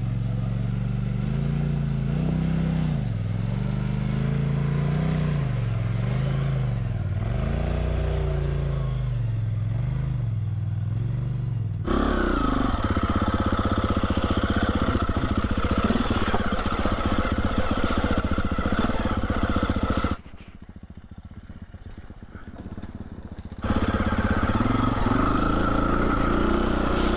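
Husqvarna 350 FE single-cylinder four-stroke dirt bike engine on a rocky trail, its revs rising and falling repeatedly as the throttle is worked. About twelve seconds in it turns louder and steadier. It drops away sharply for about three seconds near the twenty-second mark, then comes back.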